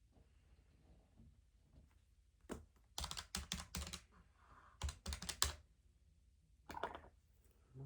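Keys tapped in short, quick runs of clicks: a single press, a run of about six, a run of about four, then a couple more near the end.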